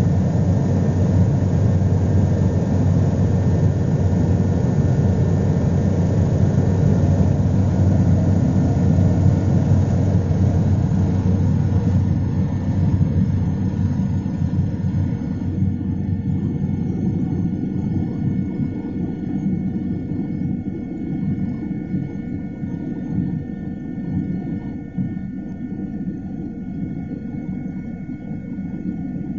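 Helicopter in flight, its engine and rotor noise heard from aboard as a steady low rumble with faint, steady high-pitched tones. From about halfway through, the sound gradually gets quieter and duller.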